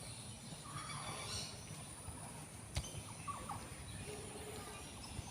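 Quiet outdoor ambience: a few short bird calls over a steady high-pitched drone, with one sharp click near the middle.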